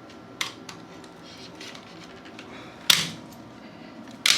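Three sharp clicks or knocks from hand tools being handled during pipe work, the loudest about three seconds in.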